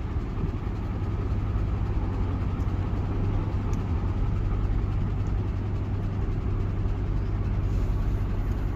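Steady low mechanical hum over a continuous rumble, unchanging throughout, with no knocks or clicks.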